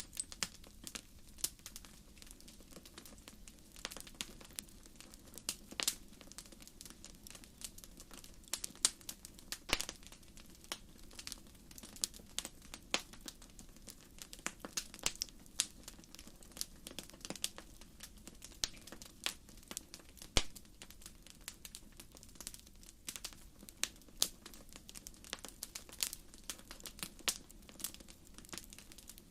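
Wood fire crackling: burning firewood gives off irregular sharp pops and snaps, several a second, some louder than others, over a soft steady low sound of the flames.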